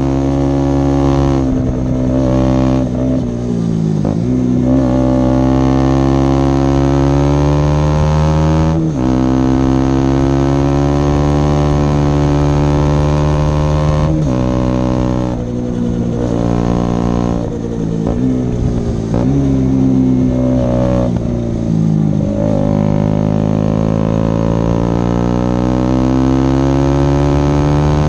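KTM Duke 125's single-cylinder four-stroke engine, running through an Akrapovic silencer with its dB killer removed and a Leovince decat pipe. The revs climb steadily and fall away several times, with sudden drops in pitch like upshifts.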